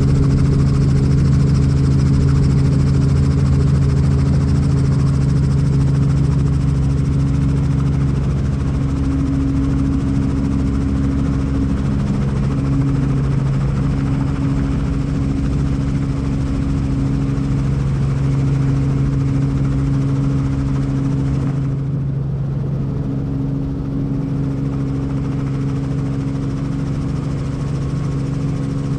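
Helicopter running steadily: a loud, even low drone from the engine and rotor.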